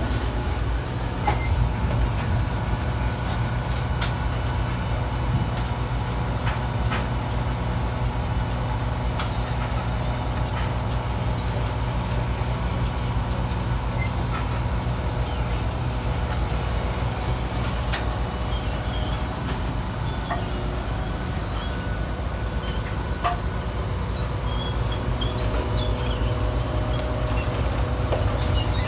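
Garbage truck's engine running steadily, a low drone with a few sharp clicks and faint high chirps in the second half.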